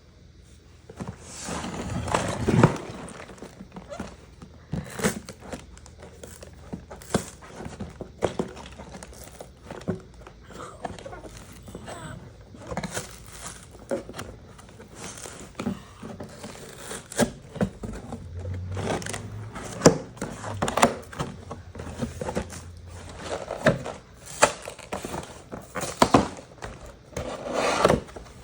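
Lego set packaging being handled and opened by hand: irregular knocks and sharp clicks with bursts of crinkling.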